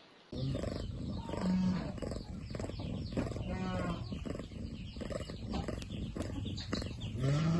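Farm animals calling: a few short, low calls over a busy, clattering background that starts abruptly just after the beginning.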